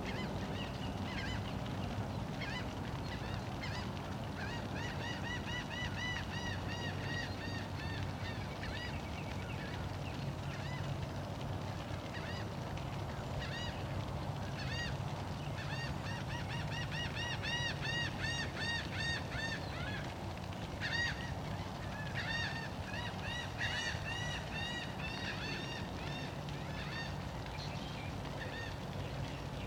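Birds calling: many short, arching calls in quick runs, some overlapping, over a steady low hum.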